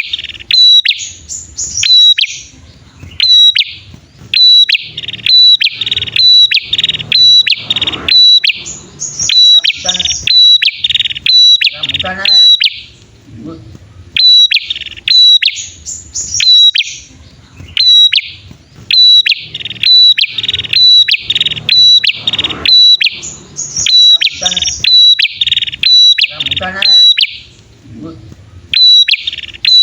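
Ashy tailorbirds, male and female, calling in rapid series of sharp, high chirps, bursts broken by short pauses. It is a bird-lure call, and the same sequence comes round again about halfway through.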